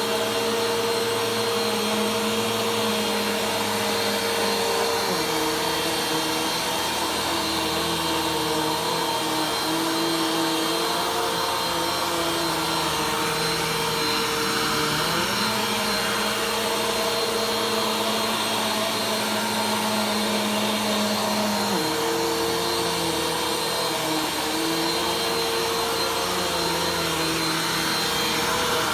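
Vacuum cleaner running steadily during slow vacuuming of a floor, its motor hum stepping down and back up in pitch a few times.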